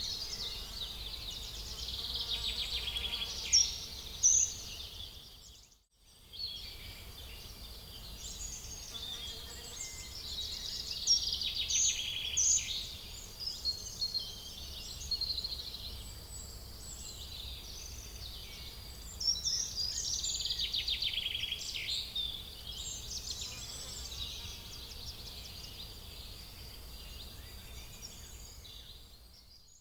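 Outdoor ambience of small birds chirping and singing busily over a faint low rumble. The sound drops out abruptly about six seconds in, then resumes.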